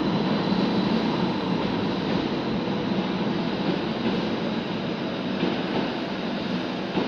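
Tyne and Wear Metrocar electric train pulling out of the station, a steady rolling rumble of wheels and motors.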